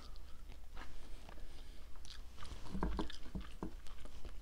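Close-up chewing of a mouthful of lettuce-and-ground-beef casserole, with moist crunching and small wet clicks. A few dull knocks come about three seconds in as the wooden spoon works in the glass baking dish.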